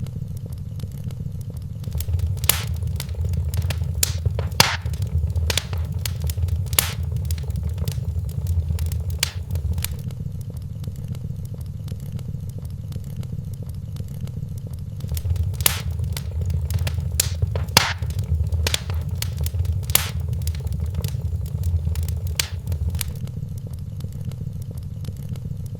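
Wood fire crackling in a fireplace: scattered sharp pops and snaps over a low, steady rumble of flame. The fire swells twice for several seconds, with louder rumble and denser crackling.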